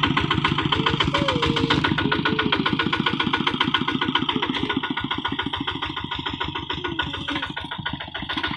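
Kubota walk-behind hand tractor's diesel engine running steadily with a fast, even chug of firing strokes, easing a little about five seconds in.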